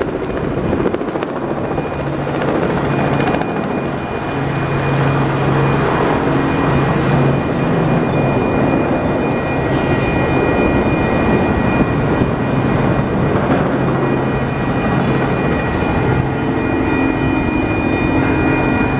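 Union Pacific freight train of autorack cars rolling past, a steady loud rolling noise with thin high-pitched tones running through it.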